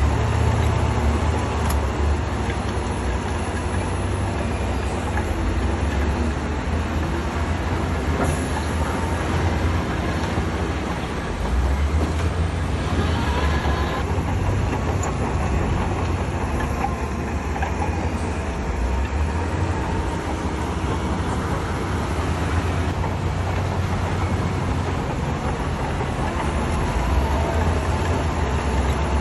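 Heavy diesel earthmoving machinery working: a steady, deep engine drone with a dense grinding noise over it.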